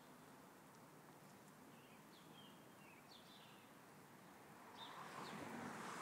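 Faint outdoor background hush with a few scattered short bird chirps. Near the end a broad rushing noise swells up and grows louder.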